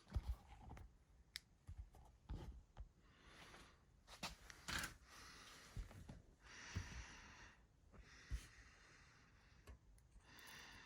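Faint scattered clicks and light knocks, with a couple of soft rustling hisses, from small metal machine parts being handled during cleaning of the espresso machine's brew group.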